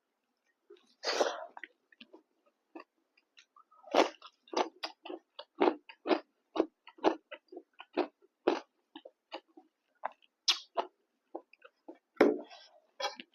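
Close-miked chewing of pork fry and rice: a run of short, even chews, about two or three a second from about four seconds in, with a longer, noisier mouth sound about a second in and another near the end.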